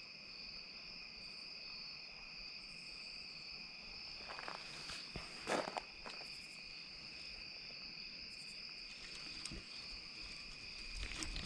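Faint, steady, high-pitched chirring of an insect chorus, with a few brief rustles and clicks about four to six seconds in and again near the end.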